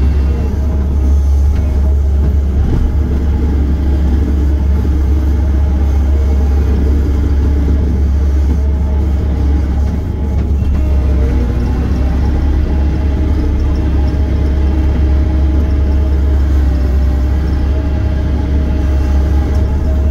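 Diesel engine of a heavy machine, an excavator or skid steer, running steadily as a loud, deep drone.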